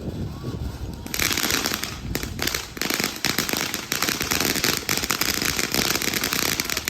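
A ground firework crackling and popping rapidly, a dense irregular string of small bangs over a hiss, starting about a second in.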